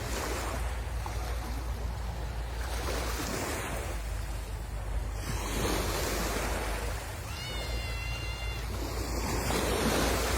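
Sea waves breaking and washing up a beach, a steady rush that swells and ebbs, with wind buffeting the microphone. A brief high-pitched tone sounds for about a second, some seven seconds in.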